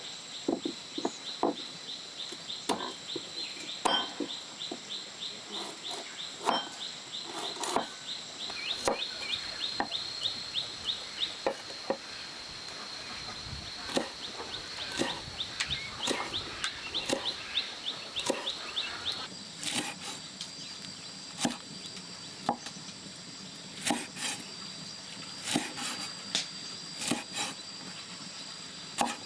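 Irregular knocks and clicks, like hand work with wood or kitchen utensils, over a steady high insect whine that pulses rapidly and shifts up in pitch a little after two-thirds of the way through.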